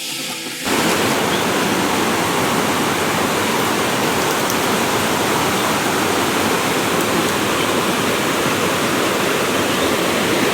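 Steady rush of water from a small waterfall, cutting in abruptly about a second in.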